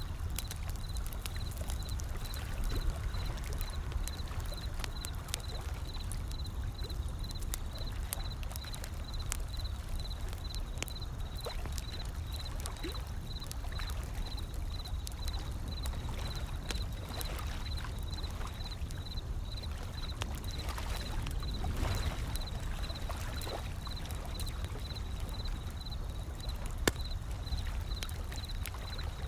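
Wood fire crackling with scattered sharp pops, one louder pop near the end, over the low rumble and wash of ocean waves. A faint high chirp repeats about twice a second throughout.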